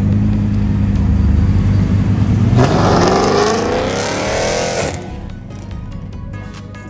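Car engine with a low steady rumble, then revved hard about two and a half seconds in: the pitch climbs for about two seconds and then cuts off suddenly.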